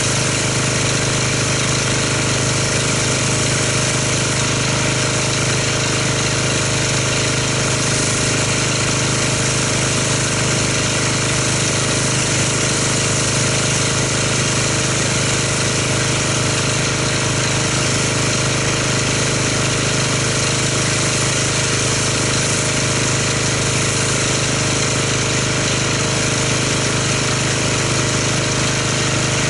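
Pressure washer running steadily while rinsing car-wash foam off a car: a constant spray hiss over the motor and pump's steady hum.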